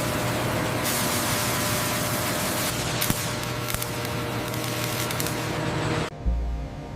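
Loud steady hiss with faint steady machine tones in it, cutting off suddenly about six seconds in; low throbbing follows.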